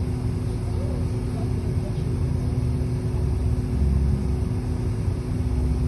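City bus on the move, heard from inside the cabin: a steady low rumble of engine and road with a constant hum, swelling a little lower and louder about four seconds in and again near the end.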